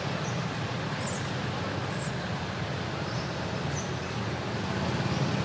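Steady low rumble of road traffic with a few faint high chirps, and two brief hissy rustles about one and two seconds in.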